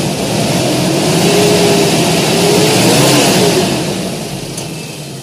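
Car engine revved up and held at high revs for a couple of seconds, then easing back down. The revving is a test for a leaking head gasket, which the mechanic suspects because combustion pressure is getting into the cooling system and the coolant hose goes hard.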